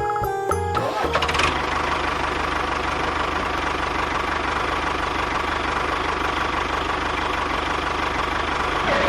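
A small motor running steadily with a fast, fine rattle, starting about a second in as a short tinkling jingle ends, and stopping at the end.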